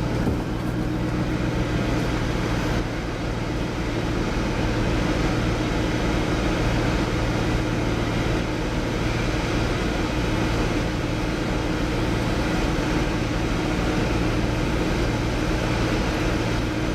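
Car engine and road noise inside the cabin while driving at a steady pace: a continuous, even drone with a low hum.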